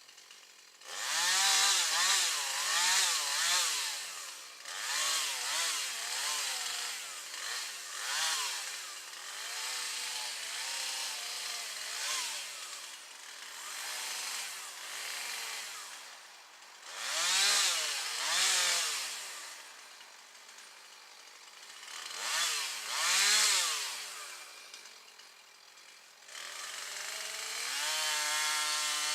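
Two-stroke chainsaw cutting wood, its engine revving up and dropping in pitch again and again as the chain bites, in a series of loud bursts. Near the end it holds a steadier, high rev.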